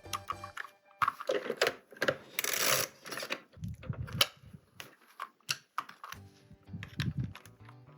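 Plastic toy parts and packaging being handled during an unboxing: many sharp clicks and snaps with short crinkly rustles, over quiet music.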